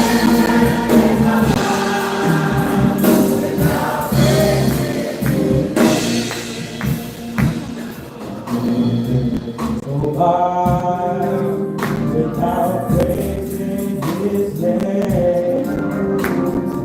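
A gospel choir singing with a tambourine and other rhythm instruments keeping a steady beat.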